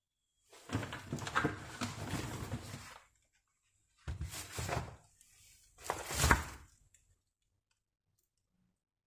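Handling sounds from hands-on kitchen work in three short bursts of clicks, rustling and knocks, with a sharper knock a little past six seconds in.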